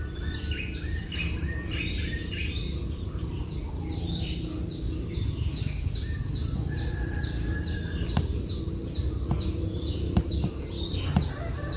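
Nestling birds calling repeatedly: a run of short, high chirps, each dropping in pitch, at about two a second, over a steady low rumble. A few faint clicks come near the end.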